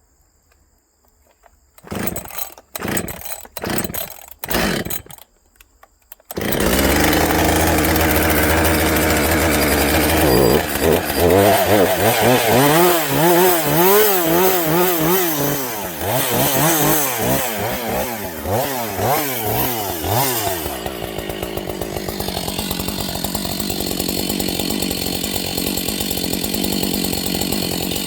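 Husqvarna 562 XP two-stroke chainsaw: after a few short bursts, the engine catches about six seconds in and runs loud. Its pitch rises and falls repeatedly, then it settles to a steadier run near the end. It is running on a dull chain that should have been replaced.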